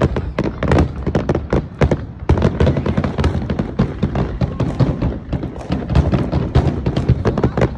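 Fireworks going off in a continuous, rapid string of sharp bangs and crackles, several a second with no break.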